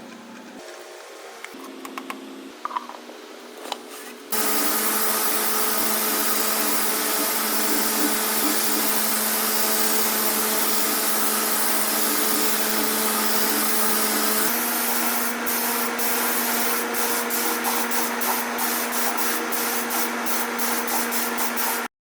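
A powered sprayer starts suddenly about four seconds in and hisses steadily over a motor hum. From about halfway on, a quick series of sharp clicks runs alongside it, and everything stops abruptly at the end.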